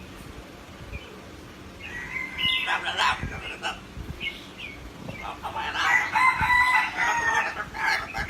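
Two long, rooster-like crowing calls from a bird, the second one louder.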